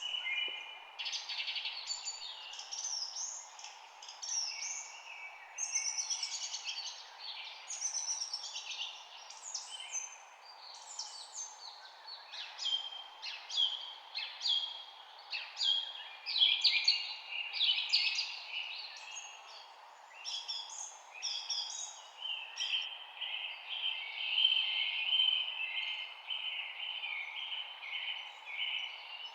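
Several songbirds chirping and singing in quick, overlapping short phrases, with a steadier trill near the end, over a faint steady background hiss.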